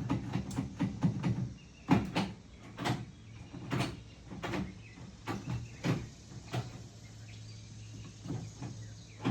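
Manual car gear shifter being moved through the gears on newly installed shift cables: a series of irregular clunks and clicks as the lever drops into each gear. The shifter feels tight. A low steady hum comes in near the end.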